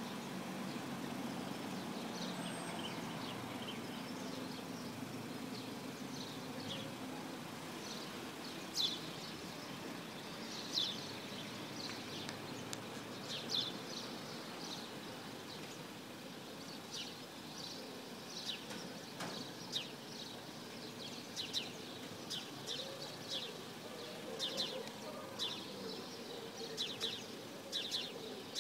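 Small birds chirping in short, sharp, repeated calls, coming more often after the first few seconds. A car engine runs low and faint underneath early on.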